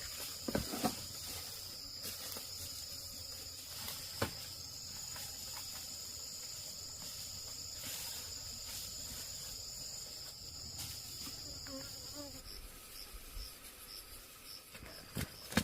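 Insects trilling in a steady, high continuous buzz on two pitches. About twelve seconds in, it changes to a pulsed chirp of roughly three pulses a second. A few faint clicks can be heard near the start and a few seconds in.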